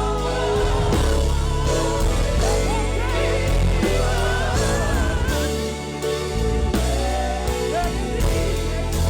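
Live gospel praise-and-worship music: a voice sings wavering, gliding lines over a steady bass-heavy band accompaniment with drums.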